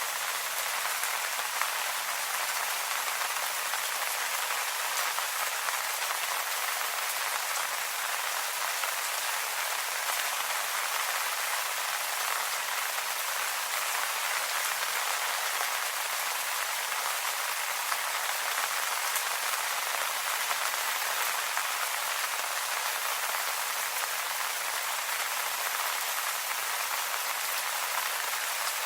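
Steady rain falling on leaves, an even patter of many drops with no let-up.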